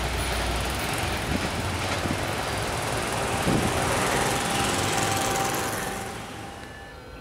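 Container freight train's wagons rumbling over the rails as the train runs away along the track, with a few faint wheel knocks; the noise fades out near the end.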